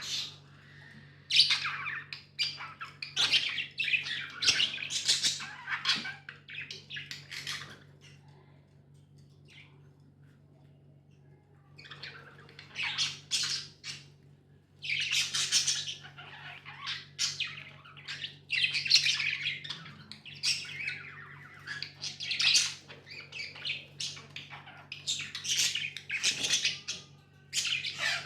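Budgies squawking and chirping in quick, harsh runs of calls, easing off into a quieter lull of a few seconds near the middle before the calling picks up again.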